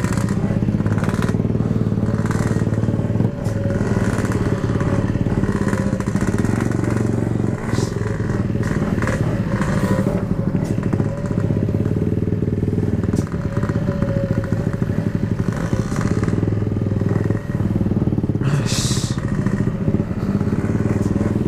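Yamaha RX-King's single-cylinder two-stroke engine running steadily under way, its pitch fairly even as the bike cruises, with gusts of wind noise on the microphone. The rider says the clutch is still slipping.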